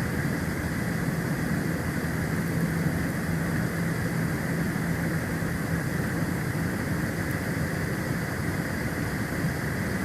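Steady wind and storm noise on an outdoor nest-camera microphone in a snowstorm, with a low steady hum underneath that fades out about seven seconds in.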